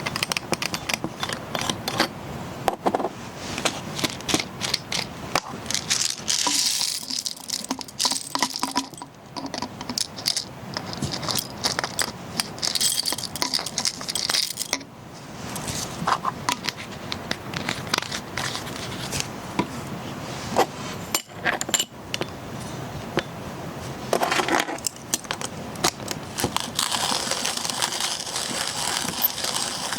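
Close handling noise: a busy run of sharp clicks, clinks and rattles, with spells of crinkling.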